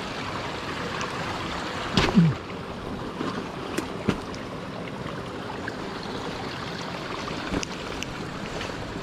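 Mountain stream rushing steadily over rocks, with a few sharp knocks, the loudest about two seconds in.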